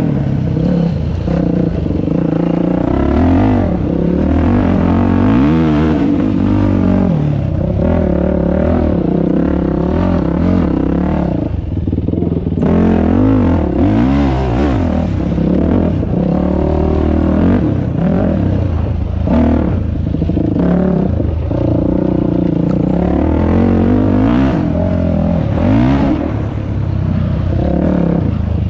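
Dirt bike engine being ridden along a trail, its pitch rising and falling over and over as the throttle is opened and closed.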